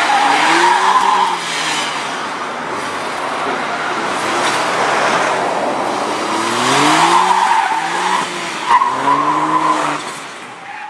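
Caterham Seven 160's 660 cc turbocharged three-cylinder engine revving up and falling back repeatedly as the car is driven hard through a gymkhana course. The tyres squeal in several short spells. The sound fades out near the end.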